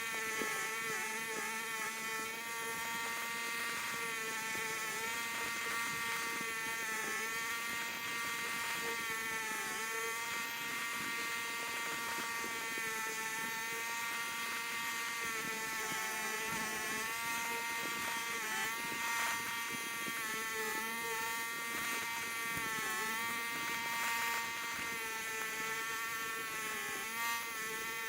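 A small engine running steadily at high speed, its pitch sagging briefly every few seconds as if taking load.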